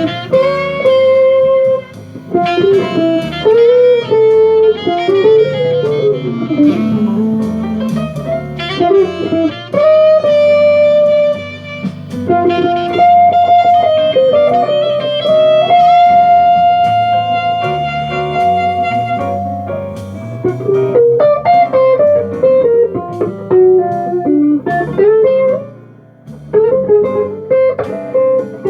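Jazz guitar playing a flowing melody line with lower bass notes moving beneath it, dipping briefly near the end.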